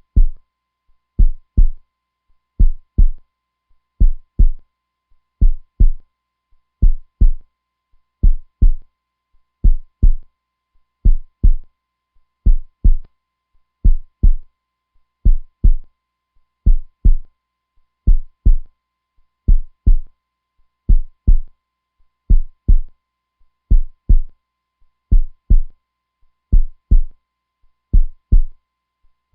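Heartbeat sound: low, strong lub-dub double thumps repeating steadily, about one pair every second and a half.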